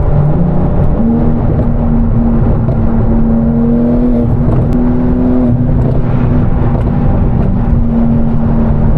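Sports car engine running steadily at cruise. Its note steps up in pitch about a second in and then holds a steady drone.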